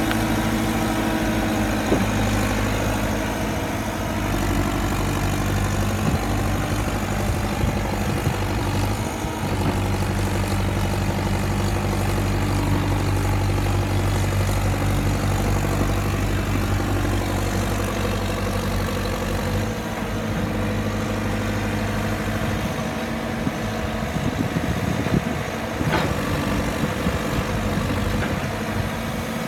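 JCB 3CX backhoe loader's diesel engine running, its note shifting a couple of times.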